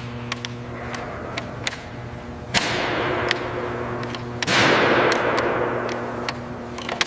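Steady machine hum of a hoist lowering a heavy part onto its mounts, with scattered sharp metallic clicks. Two loud hissing surges come about two and a half and four and a half seconds in, each fading away.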